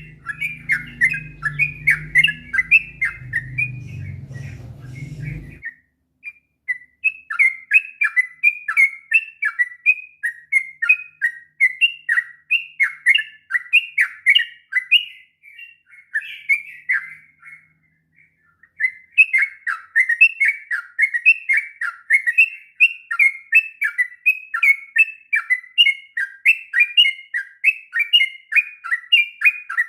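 Sooty-headed bulbul (trucuk) singing long, rapid, chattering runs of quick repeated notes in the continuous 'ngropel' style, with a couple of brief pauses between runs. A low hum underlies the first few seconds, then stops.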